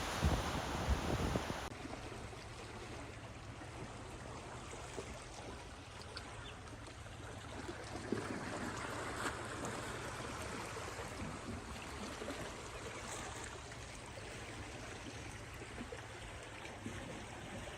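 Waves with wind on the microphone for the first second and a half, then an abrupt cut to quieter, gently moving water with a few faint small splashes.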